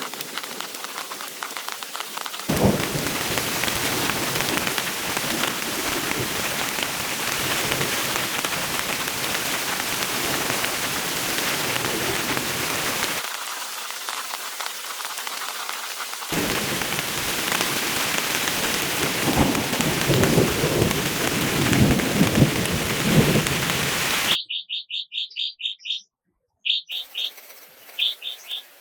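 Heavy rain pouring down as a dense, steady hiss, broken by a few abrupt cuts. About 24 s in it gives way suddenly to a bird calling in quick runs of short, high repeated notes.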